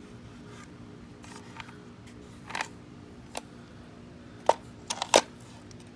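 Sharp metallic clicks and clinks of hand tools and valvetrain parts on an engine's cylinder head as the rocker arms are worked back into place. They are scattered at first, with the loudest few close together near the end.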